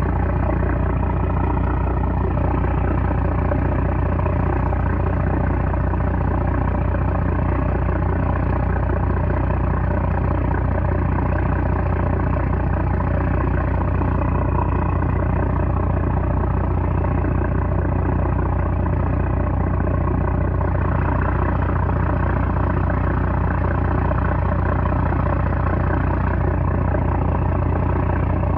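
A small trawler's 330-horsepower engine running steadily and loud, with no change in speed.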